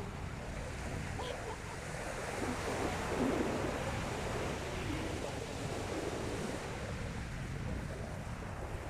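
Sea waves washing onto the beach in a steady surge, swelling a little about three seconds in, with wind buffeting the microphone.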